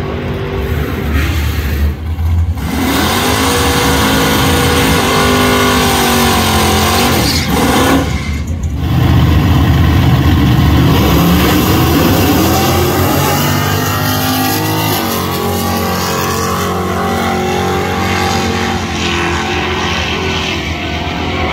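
A high-performance car engine revving hard, its pitch climbing and falling in long sweeps and dropping out briefly about two seconds and eight seconds in.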